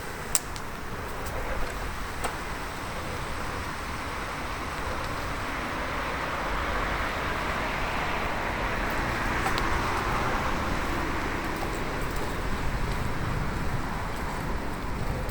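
Steady rolling and wind noise of a bicycle on a road, with a car's tyre noise swelling and fading as it passes about halfway through. A few sharp clicks.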